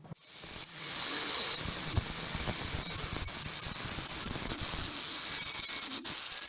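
A steady hiss, like escaping air or spray, that starts about half a second in and holds at a constant level, with a thin high whistle joining near the end.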